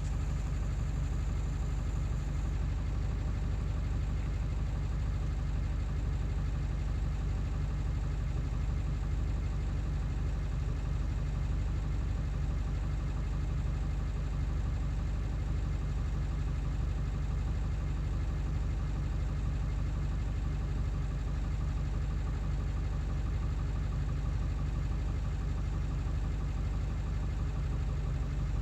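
Ford 7.3 L Power Stroke turbo-diesel V8 idling without change. It runs rough even after a new injection control pressure (ICP) sensor.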